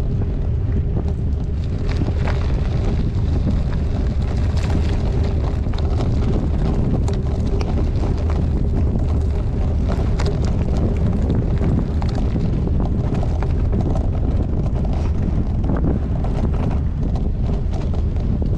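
Wind buffeting the microphone of a GoPro on a moving gravel bike: a loud, steady low rumble with frequent sharp clicks and rattles from the bike and tyres over a rough surface.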